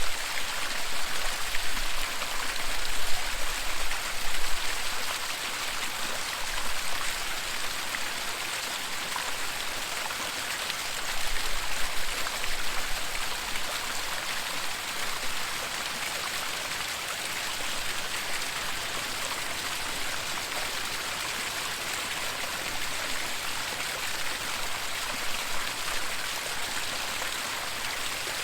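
Waterfall rushing: a steady, even wash of falling water, with a few louder, deeper surges in the first few seconds and again about halfway through.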